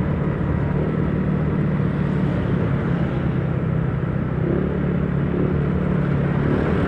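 Yamaha Mio scooter engine running steadily while riding, with road and wind noise.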